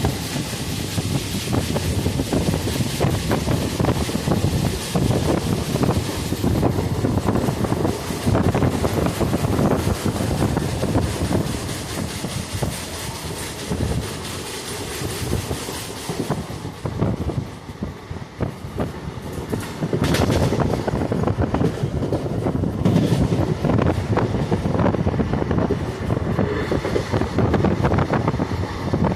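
Running noise of an ICF passenger coach on the move: wheels clattering over rail joints with a steady rumble and rush of air. It eases for a moment about two-thirds through, then picks up again.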